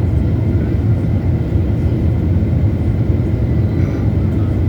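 Boeing airliner cabin noise in flight: a steady, loud rumble of engines and airflow heard from a passenger seat.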